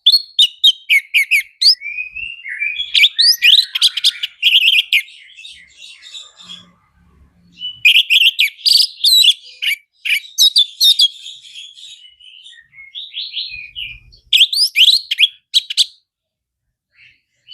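Orange-headed thrush (anis merah) in full song: three loud bouts of rapid, varied whistled phrases and sharp chirps, with softer twittering in between.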